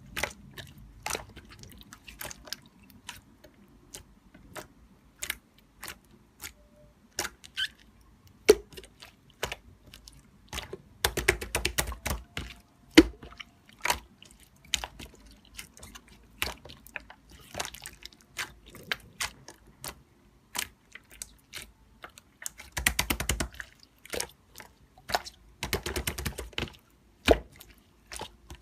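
Irregular sharp clicks and taps, with dense rapid flurries about 11, 23 and 26 seconds in.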